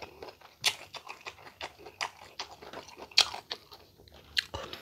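Close-miked crunching and chewing of crisp, unripe green mango strips: a run of sharp bites and crunches, with the loudest ones about a second in and just past three seconds.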